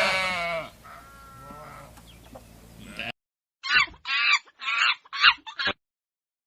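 Animal calls: a loud drawn-out call trails off in the first second, followed by softer calls. After an abrupt cut, five short calls come in quick succession, and then the sound stops.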